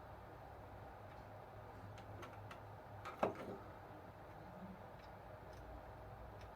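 Low steady hum with a few light clicks, then one sharper click with a short ring about three seconds in, like small parts being handled on a workbench.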